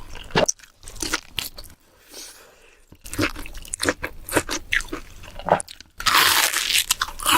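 Close-miked eating: crunchy bites and chewing, repeated crackly crunches. There is a short pause about two seconds in, and a loud, dense crunch about six seconds in.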